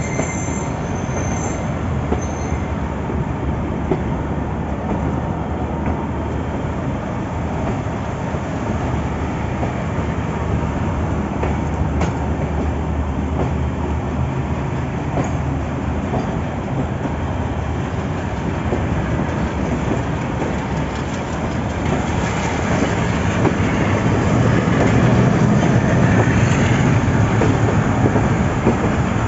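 Train running at speed, heard from on board close to the locomotive: a steady noise of wheels and running gear on the rails that grows louder about three quarters of the way through.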